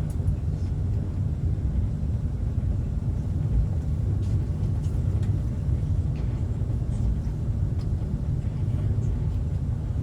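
Steady low rumble of a passenger train running along the track, heard from inside the carriage, with a few faint clicks.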